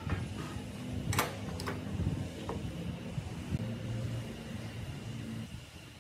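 A few sharp clicks, two of them close together a little over a second in and a lighter ping a second later, over a low, steady hum.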